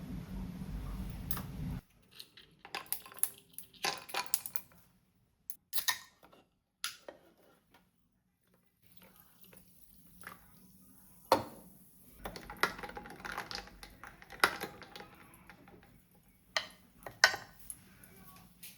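Dishes and utensils being handled, clinking and knocking in scattered short bursts, with a steady noise at the start that cuts off abruptly about two seconds in.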